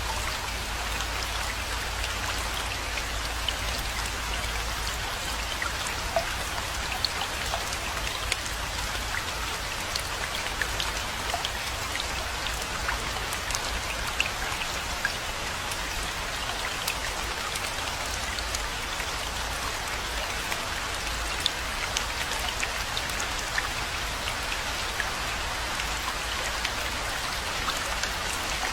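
Steady rainfall, an even hiss of rain dotted with many distinct drop hits, over a steady low rumble.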